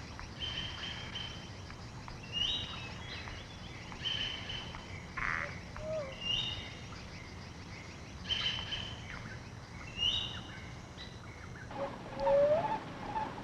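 Birds calling: a short high call note repeated about every one to two seconds, then lower, louder calls near the end.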